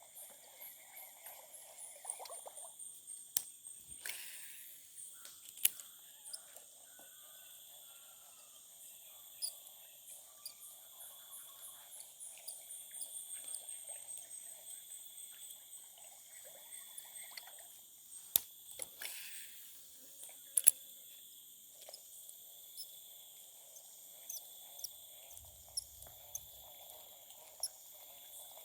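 Chorus of crickets and other insects, a steady high-pitched trilling with slowly falling high notes woven through it. A few sharp clicks or knocks cut through, the loudest about 21 seconds in.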